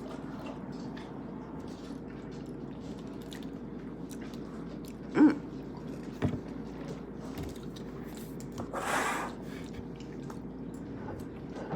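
A person eating a spoonful of McFlurry ice cream: quiet chewing with a few small clicks, a short hum about five seconds in and a breathy noise around nine seconds in.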